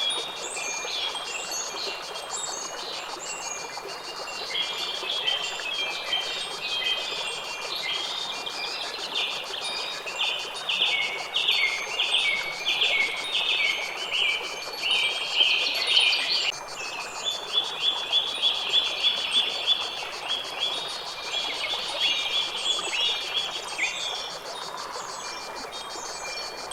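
Birds singing and chirping over a steady background hiss, with fast runs of repeated notes through the middle.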